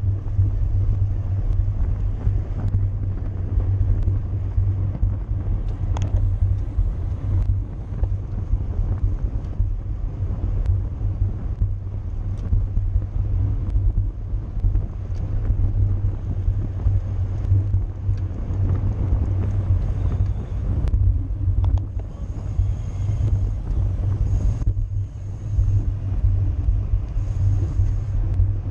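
Steady wind buffeting and road rumble on a bicycle-mounted camera during a criterium race at speed, with a few faint clicks from the bike.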